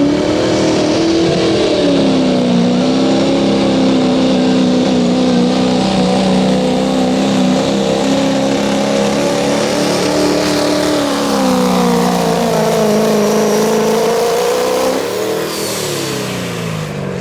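Diesel pulling truck's engine running hard under load during a pull, its pitch wavering up and down. About fifteen seconds in, the engine's pitch falls away and it gets quieter as the run ends.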